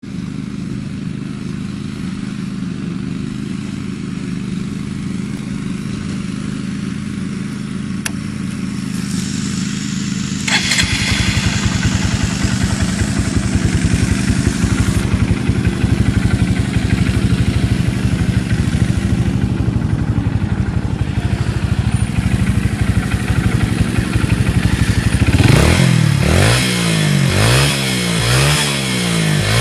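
Honda CBF125's single-cylinder four-stroke engine idling through an aftermarket performance exhaust. It gets louder about ten seconds in, and near the end it is revved up and down in several quick blips.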